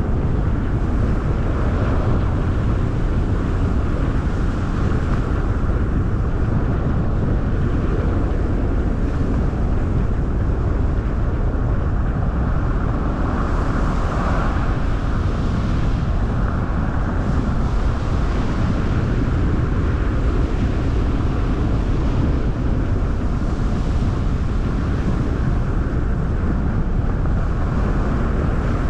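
Car driving at a steady pace: a constant low rumble of tyre and road noise mixed with wind rushing past the camera.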